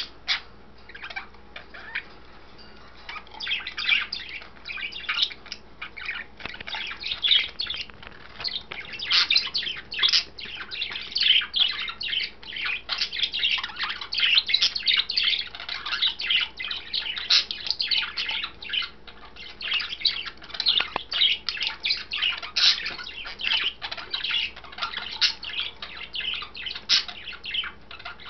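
Pet budgerigar chattering and warbling nonstop in a fast, scratchy stream of chirps. The song is sparser for the first few seconds, then dense and busy.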